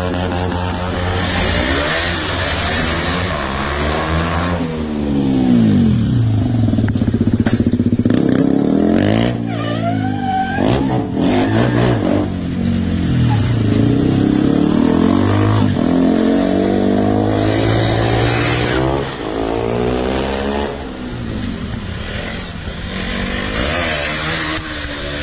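Single-cylinder KTM motorcycle engine revved hard, its pitch rising and falling over and over.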